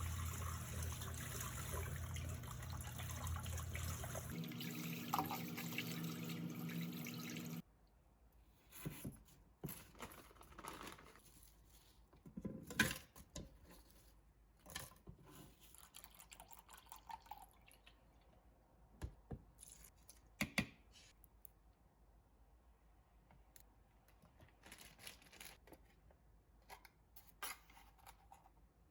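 Water running steadily from a kitchen tap into a sink, cut off suddenly about seven seconds in. After that come scattered light knocks and clinks.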